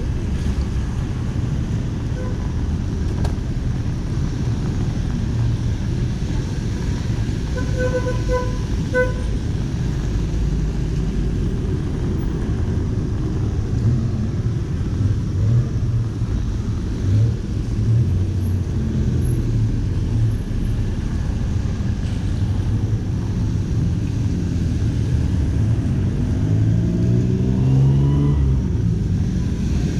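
City street traffic running steadily. A vehicle horn gives a few short toots about eight seconds in, and near the end an engine rises in pitch as a vehicle accelerates.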